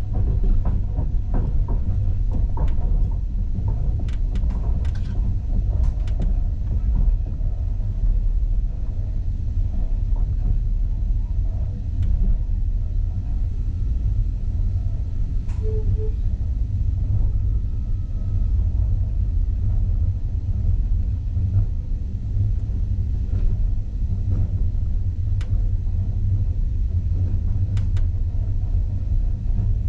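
Russian passenger train carriage running at speed, heard from inside: a steady low rumble of wheels on track, with scattered sharp clicks and knocks, most of them in the first few seconds.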